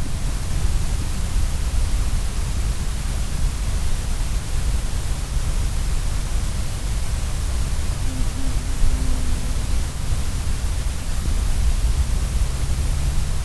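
Steady noise: a low rumble under an even hiss, with no clear animal call.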